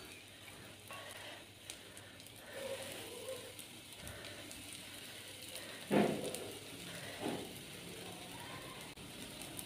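Bread slices frying in hot desi ghee in a frying pan as more pieces are laid in: a faint steady sizzle with light crackles. A brief louder sound about six seconds in, and a smaller one a second later.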